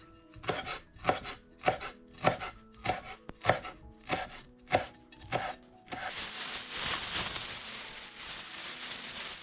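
A kitchen knife chopping through cucumbers on a cutting board, about nine even strokes roughly every half-second. About six seconds in, the chopping gives way to a steady rushing hiss.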